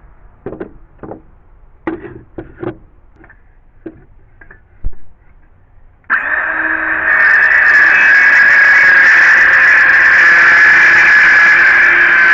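A few light knocks and clicks of the saw being handled and set against the board, then about halfway through a circular saw (skill saw) starts suddenly and runs loud and steady with a high whine as it cuts into the wood.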